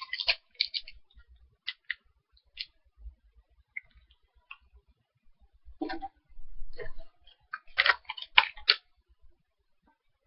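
Irregular crunching clicks of someone chewing a crunchy snack, in scattered clusters with short quiet gaps.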